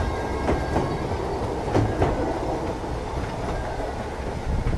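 Narrow-gauge train running along the track, with several irregular clicks from the wheels over the rails and a faint high squeal.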